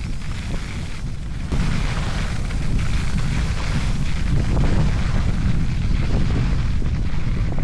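Wind buffeting the microphone of a skier on the move, over the hiss and scrape of skis on snow. It gets louder about a second and a half in.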